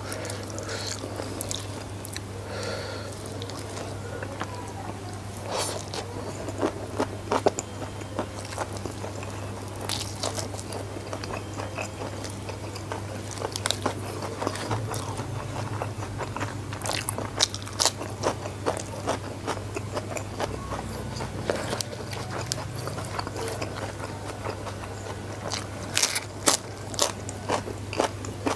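Close-miked eating: crunchy bites into raw lalapan vegetables and wet chewing, with many sharp clicks and crackles all through. A steady low hum runs underneath.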